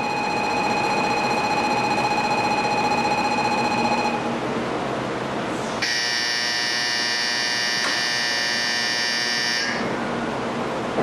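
Electronic platform warning signals at a Shinkansen station: a steady buzzer tone that stops about four seconds in, then a louder, brighter buzzer that starts sharply a second or two later and cuts off about four seconds after that, over a steady background rush.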